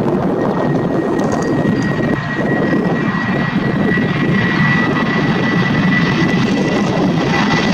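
Airbus A320-232 jet engines running at takeoff power: a steady roar with a high whine held at one pitch, the whine growing stronger toward the end.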